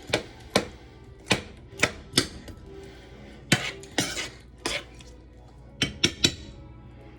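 Kitchen utensils clinking against cookware: about a dozen sharp, separate knocks at uneven intervals, with a short scrape a few seconds in.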